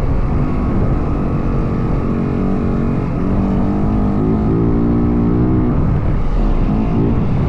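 Yamaha WR450F single-cylinder four-stroke dirt bike engine running under way, its note rising, falling and holding as the throttle is worked, over a steady low rush of wind noise.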